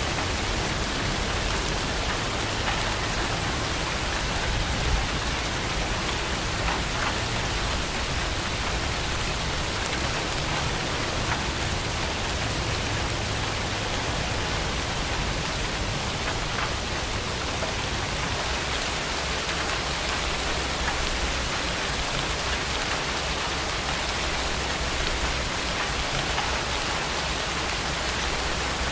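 Heavy rain falling steadily, a dense even hiss of drops with a few sharper individual drop ticks.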